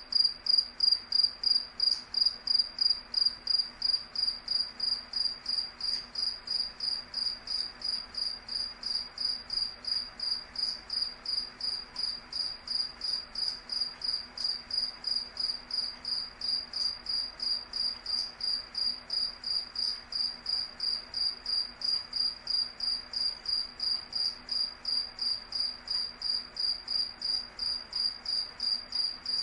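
A cricket chirping: a single high, pure-toned chirp repeated evenly, a few times each second, without a break.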